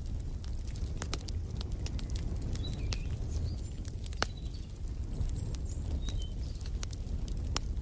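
Wood fire crackling in a fireplace: irregular sharp pops and snaps over a steady low rumble of the flames. A few brief, high bird chirps come in the middle.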